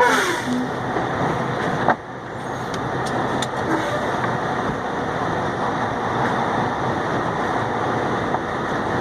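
Delivery truck's engine and road noise while driving, a steady rumble. A short falling whine sounds at the start, and about two seconds in the level drops suddenly, then builds back up.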